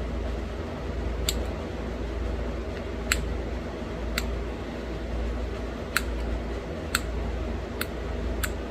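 Flintknapping: about seven sharp stone clicks, a second or so apart, as small flakes snap off the edge of a small stone point being worked. A steady low hum runs underneath.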